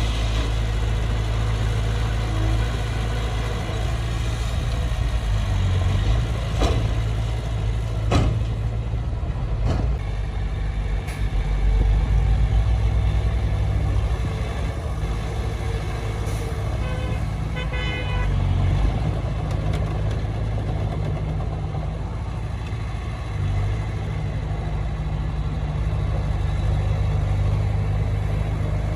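Heavy diesel engine of earthmoving machinery running steadily, with a few sharp knocks about seven to ten seconds in and a short pulsing tone a little past halfway.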